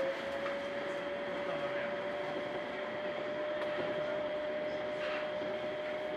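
Yurikamome rubber-tyred automated guideway train running, heard from inside the front of the car. A steady electric motor whine rises slightly at the start and then holds its pitch, over even running and tyre noise.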